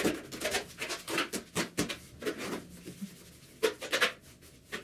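Trowel scraping and rubbing tile adhesive into a self-levelling floor screed in short, irregular strokes, a few louder ones near the end; this is the first thin layer being worked in to fill the voids and improve adhesion.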